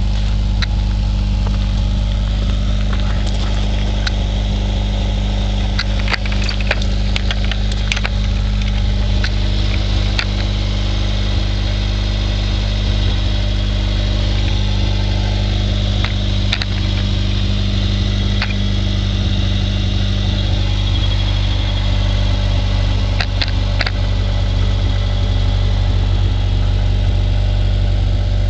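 Honda B18A1 1.8-litre four-cylinder in a CRX idling steadily through a 2 1/4-inch straight pipe with a Dynomax Super Turbo muffler, a deep even exhaust drone with a few light clicks.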